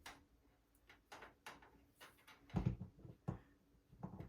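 Scattered light clicks and dull knocks from a box fan and its cord being handled, with two louder knocks about two and a half and four seconds in.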